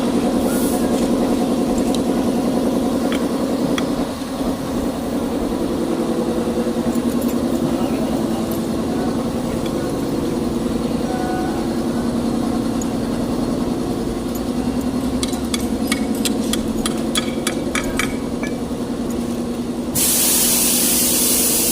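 Hino truck's diesel engine idling steadily, with a quick run of sharp clicks late on, then a loud hiss of air that starts suddenly near the end.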